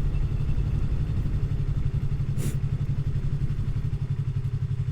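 Motorcycle engine running steadily while riding, a low pulsing drone, with a brief hiss about two and a half seconds in.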